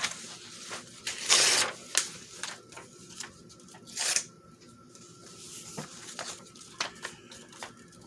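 Decorative craft paper being torn by hand in short rips, the loudest about a second and a half in and another at about four seconds, with paper rustling and handling between.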